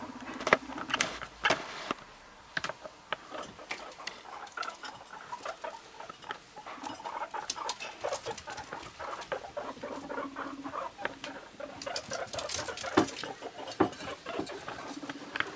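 Guinea pigs scurrying and scuffling, with many sharp clicks and pattering. A few short, low, buzzing rumbles are heard at the start, midway and near the end, as guinea pigs make while being introduced to each other.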